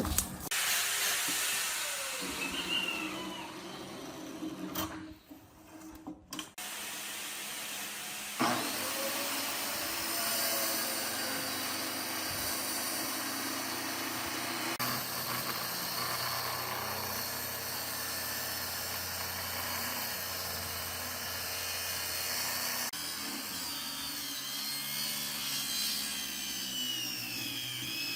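Woodworking power tools running, a steady machine noise that changes abruptly several times, with a brief drop-out about five seconds in.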